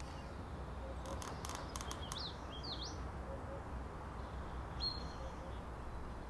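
Birdsong: a quick run of sharp notes and up-and-down chirps about one to three seconds in, then a single short call about five seconds in, over a steady low rumble of outdoor ambience.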